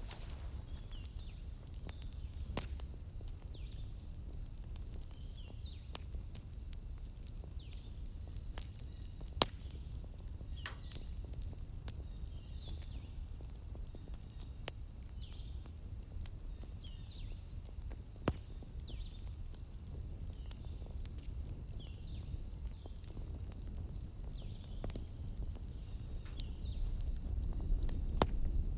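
Fireplace wood fire crackling with sparse sharp pops, a few louder ones about a third and two-thirds of the way through, over a low rumble. Behind it runs a steady high chorus of evening animals, with short falling calls repeated every second or two.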